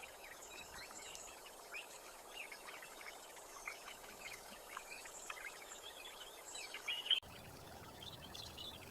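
Faint outdoor ambience with many short, high bird chirps scattered throughout; about seven seconds in the background cuts abruptly to a lower, steadier hum.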